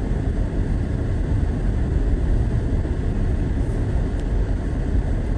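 Steady low rumble of a four-wheel-drive vehicle driving through a blizzard, heard from inside the cabin: road, engine and wind noise blended together.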